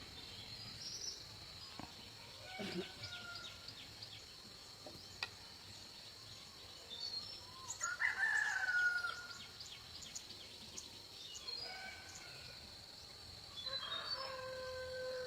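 A rooster crowing: one long call about 8 s in, the loudest sound, and another starting near the end, over a steady high-pitched tone.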